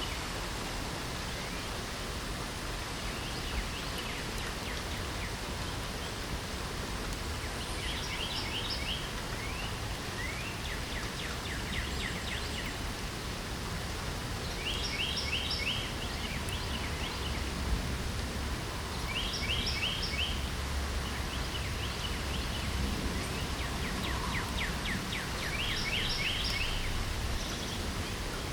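Steady hiss of light rain, with a songbird singing short, rapid trills of high notes about five times, a few seconds apart.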